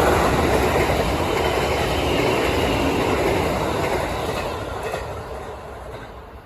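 A train running past on the track, loud at first, its noise dying away over the last two seconds or so as it moves off.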